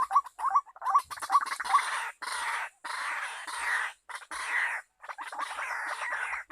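Bird calls: a quick series of short, rising chirps, then harsh, rasping chatter in stretches of about a second with brief breaks.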